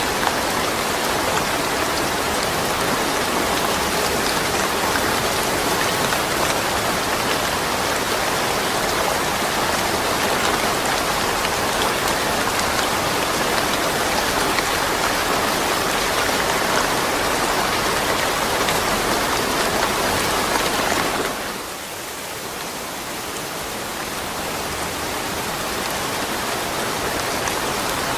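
Steady rain falling with no thunder. About three quarters of the way through it suddenly drops quieter, then slowly builds back up to full strength.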